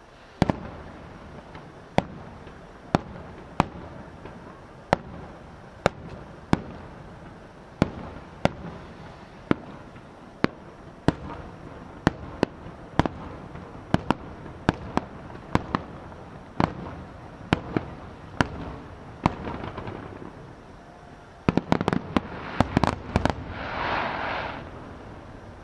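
Fireworks display: sharp aerial shell bursts roughly once a second, each trailing off in a short rumble. Near the end comes a rapid cluster of bangs, then a brief crackling hiss.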